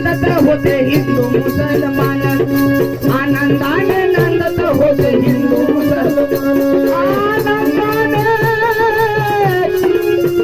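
Marathi gondhal folk music playing between sung lines: a melody instrument over a held note, with a fast, steady rattling percussion beat.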